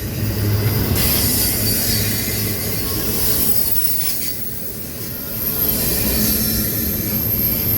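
Railroad cars rolling past with a steady low rumble and a thin, high-pitched wheel squeal that comes in about two-thirds of the way through.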